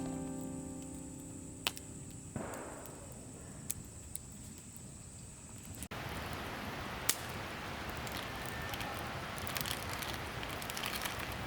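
Wood fire crackling and popping, with scattered sharp pops at first, then a steady hiss thick with crackles from about six seconds in. The last notes of an acoustic guitar ring out and fade at the start.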